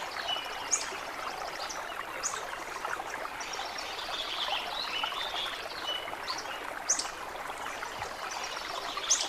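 Stream water flowing steadily, with high, sharp chirps every few seconds and brief trilled calls above the rush of water.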